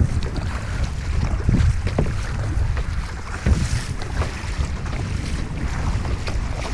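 Gusty wind buffeting the microphone, with choppy whitecap water splashing against a kayak.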